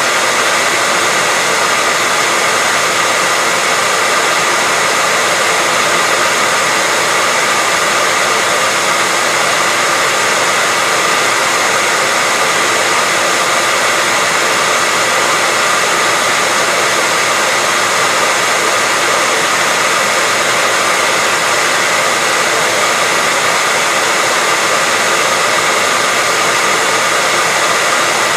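Hair dryer running steadily: an even, unbroken rush of blown air, with a faint steady whine from its motor.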